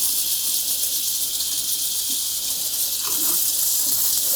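Kitchen faucet running hot water in a steady, hissing stream over a dishwasher filter as it is rinsed in the sink.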